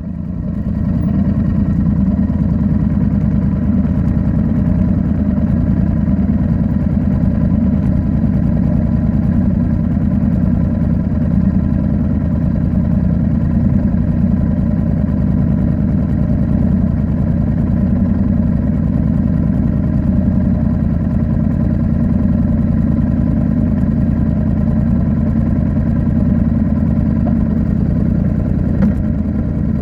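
Royal Enfield Interceptor 650's parallel-twin engine breathing through an aftermarket Nuke exhaust, running steadily while the bike is ridden. It swells louder about a second in, then holds an even note.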